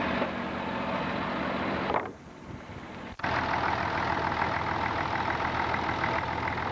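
An engine running steadily. The sound falls away about two seconds in and comes back abruptly about a second later.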